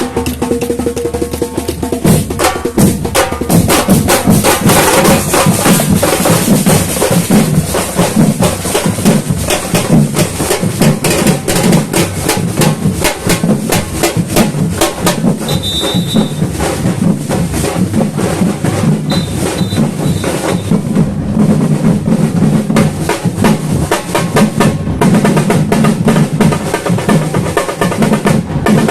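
Samba batucada drum ensemble playing a dense, fast, continuous rhythm with deep bass drums under it. A short high tone sounds twice about midway.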